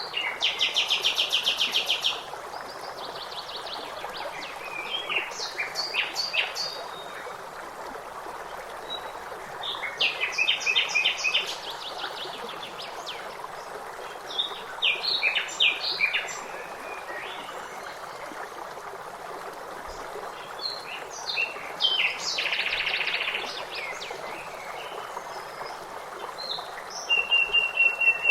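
Songbirds singing over a steady rush of running water. Bursts of fast trills and chirps come every few seconds, the loudest near the start, about ten seconds in and near the end.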